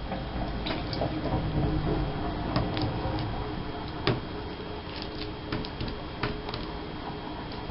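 Paper cutouts and a glue stick being handled on a tabletop: light, scattered taps and rustles, with a dull low rumble of handling in the first couple of seconds.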